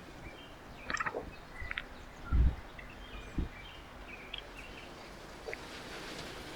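Small birds at a backyard feeder giving short, scattered chirps, with a quick cluster of clicks about a second in. A dull thump comes about two and a half seconds in and a lighter one a second later.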